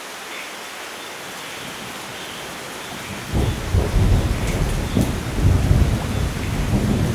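Steady rain falling, then about three seconds in a deep, rolling thunder rumble breaks in and keeps rumbling unevenly over the rain, louder than the rain itself.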